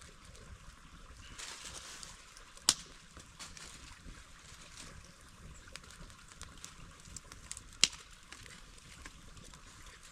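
Steady faint rush of a mountain waterfall or stream, with two sharp clicks about five seconds apart standing out as the loudest sounds.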